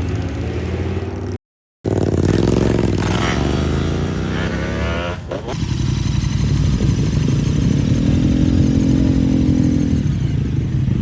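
Motorcycle engines running and riding past, their pitch swelling and falling as bikes go by. The sound cuts out for about half a second near the start.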